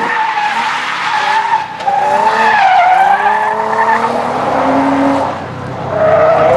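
A drift car sliding through the course: its engine revs up and down hard while its tyres squeal and skid across the pavement. The sound dips briefly past the middle, then comes back up loud.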